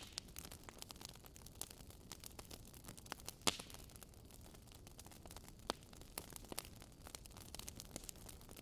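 Wood campfire crackling: scattered irregular snaps and pops over a faint steady hiss, with the sharpest pop about three and a half seconds in.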